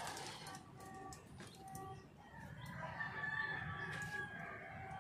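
Bird calls: a few short calls, then one longer drawn-out call about three seconds in.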